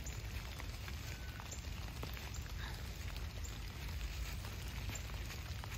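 Light rain falling on fallen leaves: a steady soft hiss with scattered faint ticks of drops.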